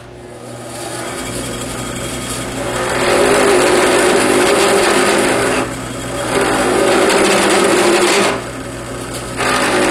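Drill press spinning up and running with an end milling cutter, the cutter grinding into a mesquite grip blank in three passes to cut the recesses, the sound growing louder and rougher while it cuts and dropping back to the motor's hum between passes.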